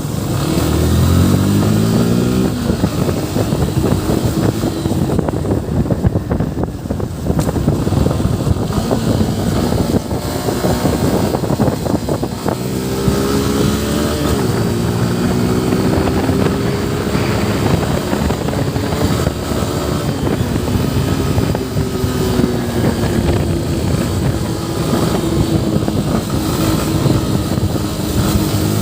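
Yamaha FZ V3 motorcycle's single-cylinder engine under way, rising in pitch as it accelerates near the start and again about halfway through, with a brief dip like a gear change, then holding a steady pitch at cruising speed. Rushing wind noise runs under the engine throughout.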